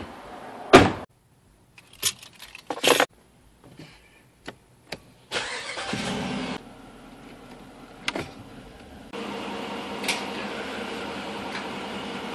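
A loud thump about a second in and a few clicks and knocks. Then a car's push-button ignition: the engine cranks and catches about five seconds in, and from about nine seconds it runs at a steady idle.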